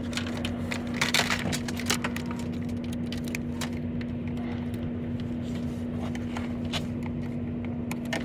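A steady low hum held at one pitch, with scattered clicks and scrapes of handling, most of them in the first couple of seconds.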